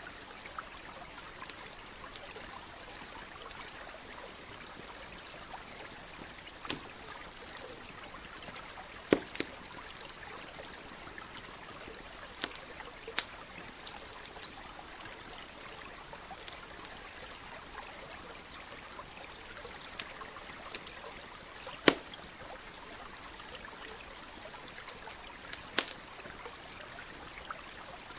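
Campfire crackling, with a handful of sharp, irregular pops, the loudest about nine seconds in and again about twenty-two seconds in, over the steady trickle of a stream.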